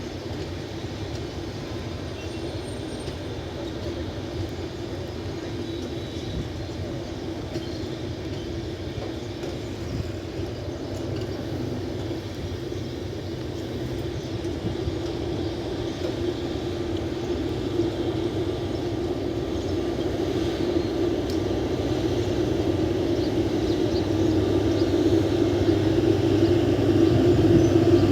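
Diesel-hauled express train approaching: a steady low rumble and engine drone growing steadily louder.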